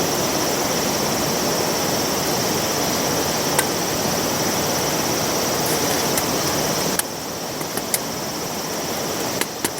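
Wind buffeting the microphone, a steady rushing noise that drops off suddenly about seven seconds in. A few sharp taps follow near the end.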